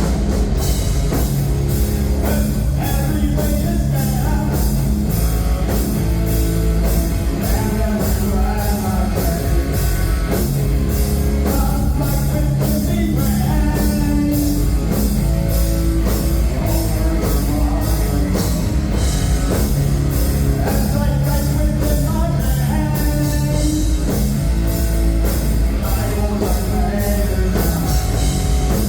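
Live heavy rock band playing loud, with a steady drum beat, guitars and bass, and a voice singing in phrases over it.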